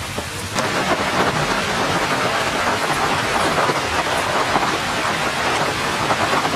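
Heavy rain falling steadily, pattering on wet ground, leaves and water. It grows louder about half a second in.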